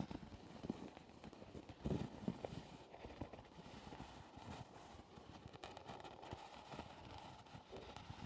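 Soft, irregular taps and knocks close to the microphone, an ASMR trigger, with a louder cluster of taps about two seconds in.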